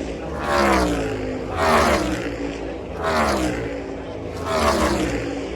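NASCAR Cup Series stock cars' V8 engines going past one after another, about four pass-bys. Each is a loud engine note that falls in pitch as the car goes by.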